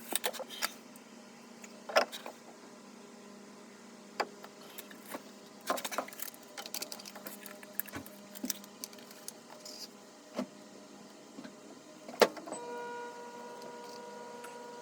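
Irregular clicks, clinks and knocks, as of hard objects being handled. A little over twelve seconds in comes a loud knock, and then a steady hum begins.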